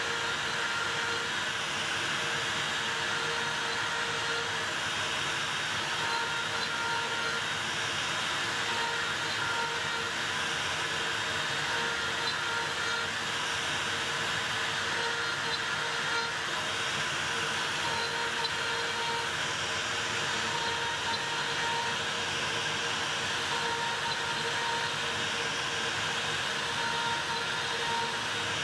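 Makita router on a OneFinity Elite Foreman CNC running steadily at high speed: a constant high whine over a broad rushing noise that holds level throughout.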